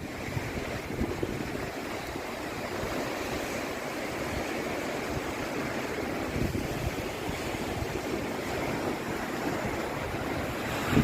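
Sea surf washing steadily against the coast, with wind gusting across the microphone in uneven low rumbles.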